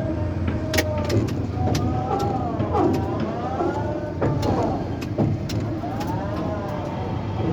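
Tower crane's electric drive motors whining, their pitch rising and falling repeatedly as the speed changes, over a steady low hum with scattered sharp clicks.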